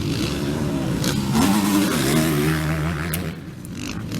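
Racing motorcycle engines passing at speed, revving and shifting in pitch. Loudest about a second and a half in, then dropping away a little after three seconds.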